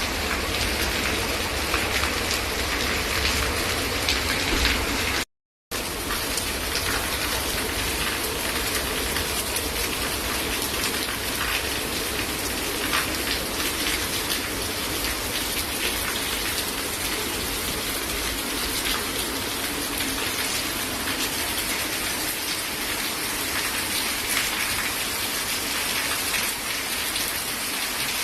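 Steady rain falling and pattering on a surface, many close drop strikes. The sound cuts out for about half a second roughly five seconds in, then carries on unchanged.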